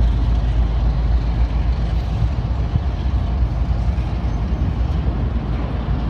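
Intermodal freight train passing close by: a loud, steady low rumble with rolling noise from the train.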